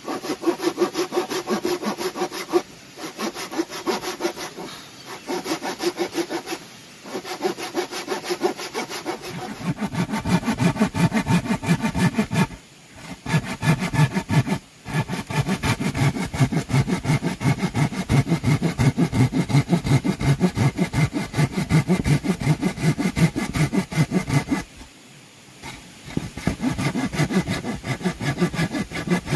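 A saw cutting through bamboo in quick back-and-forth strokes, with a ringing tone in each stroke. It stops briefly several times, at about 3, 5, 7, 13, 15 and 25 seconds, then carries on.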